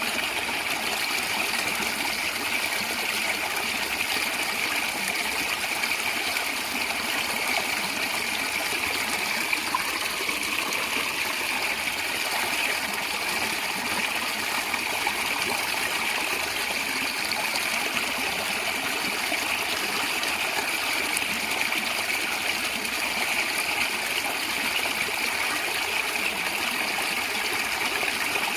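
A stream of water gurgling and trickling steadily.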